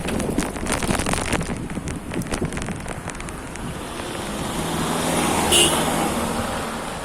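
A motor vehicle passing close by on the road, its sound swelling from about halfway through, peaking with a brief sharp burst near the end and then fading, over wind buffeting and crackle on the microphone.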